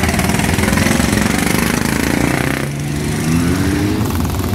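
Motorcycle engines running, with one revving up in a rising whine a little under three seconds in.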